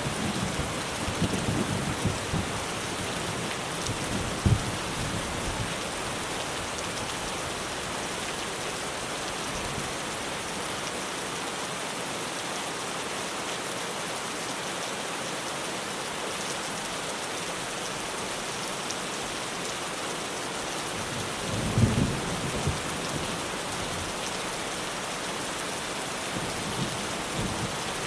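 Heavy rain drumming steadily on a tin roof. A thunder rumble dies away over the first few seconds, and another low rumble comes about two thirds of the way through, with a smaller one near the end.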